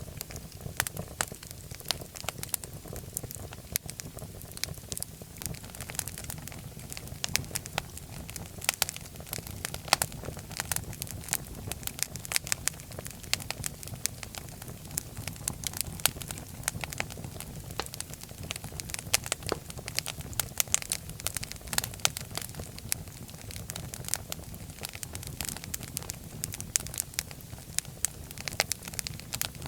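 Wood fire crackling and popping in a fireplace: frequent irregular sharp pops and snaps over a steady low rumble of the flames.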